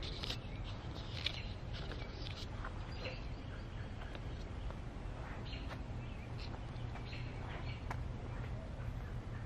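Outdoor garden ambience: small birds chirping in short, scattered calls over a steady low rumble.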